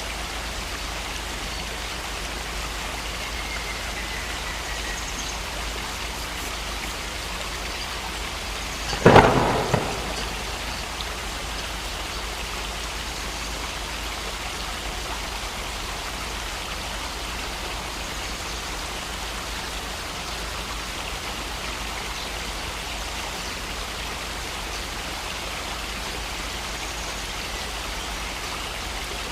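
Heavy rain falling steadily, with one sharp clap of thunder about nine seconds in that rumbles away within a second or so.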